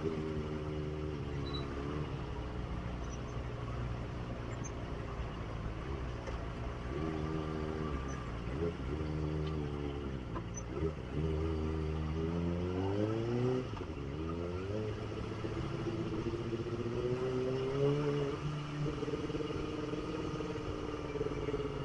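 Kawasaki ZX25R's inline-four engine running under way, its pitch steady at first, then dipping and climbing several times in the middle as the revs change, and steady again near the end.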